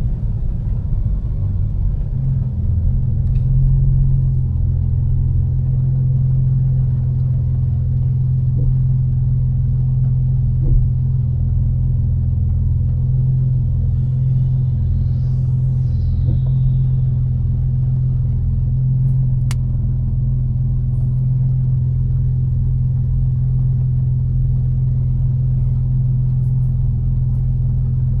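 Tuned BMW M4's twin-turbo straight-six and its tyres giving a steady low drone, heard from inside the cabin while cruising at a constant speed. About halfway there is a faint high whistle that rises and then falls, and a few seconds later a single sharp tick.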